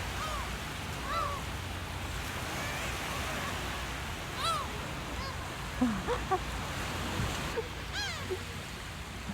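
Seagulls calling: several short, arching cries scattered through, over a steady rush of background noise.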